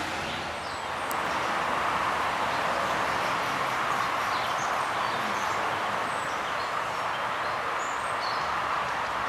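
Steady outdoor background noise, with a few faint, short bird chirps scattered through it.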